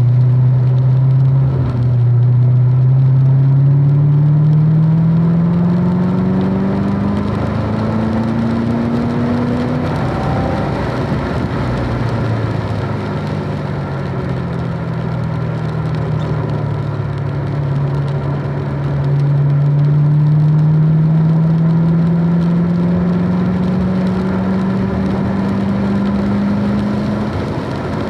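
Car engine heard on board during a lap of a wet track. Its pitch climbs steadily under acceleration for about ten seconds, drops, then climbs again and falls away near the end. A steady hiss runs underneath.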